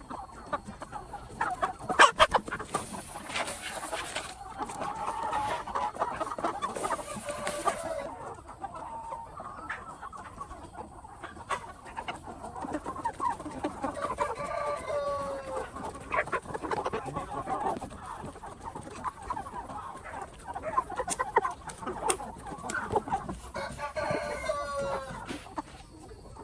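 A flock of chickens clucking, with a rooster crowing several times. A few sharp knocks sound about two seconds in.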